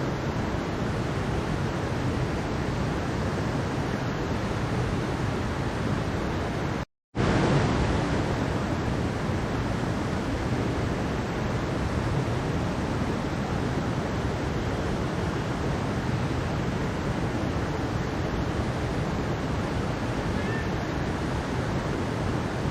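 Mountain stream water rushing in a steady, even wash. About seven seconds in it cuts out completely for a split second, then carries on as before.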